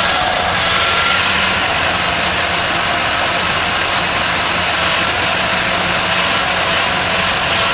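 A motor-driven machine running steadily: a constant hum under a broad, even hiss, with no strikes or breaks.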